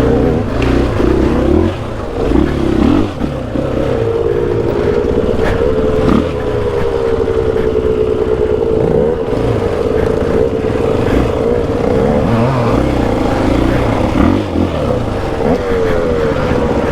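KTM 500 EXC-F dirt bike's single-cylinder four-stroke engine running under way on a trail, mostly at fairly steady revs with several brief throttle rises and dips.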